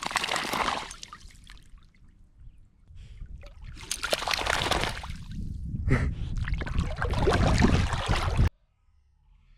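Water splashing and sloshing in a lake, something moving through the water in loud spells, with a short burst at the start and a longer one that cuts off suddenly near the end.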